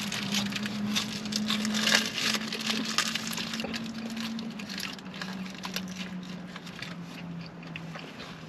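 Close-up mukbang eating sounds: chewing fast-food burgers and sandwiches, with many small wet clicks and crackles, denser in the first few seconds, over a steady low hum that stops near the end.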